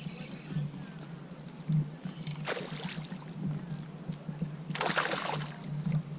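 Water splashing twice beside a kayak, two short sloshes about two and a half seconds apart, over a low steady hum.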